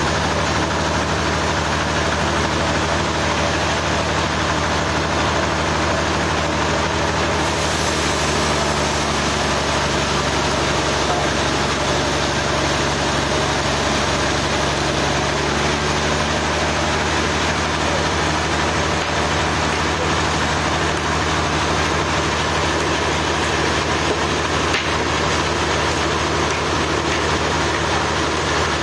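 Sawmill engine running steadily at a constant speed, a low hum with mechanical noise above it.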